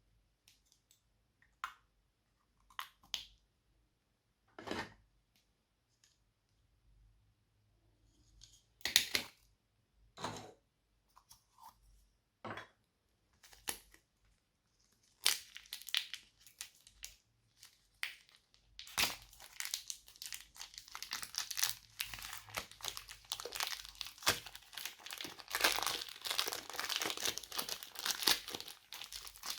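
Slime being worked by hand: a few separate sticky pops and clicks at first, then, from a little past halfway, dense continuous crinkly crackling.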